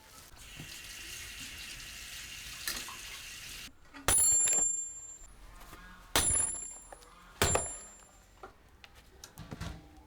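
Water running steadily for about three and a half seconds, then stopping abruptly. Then three sharp clinks of hard kitchenware, each with a brief high ringing.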